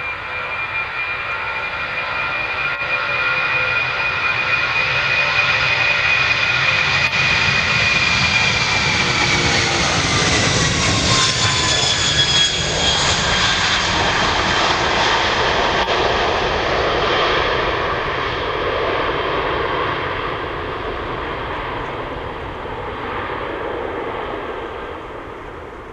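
Airbus A310-300F freighter's twin jet engines at takeoff power, passing by: a loud whine of several tones swells, drops in pitch as the aircraft goes past about halfway through, then gives way to a broad roar that slowly fades.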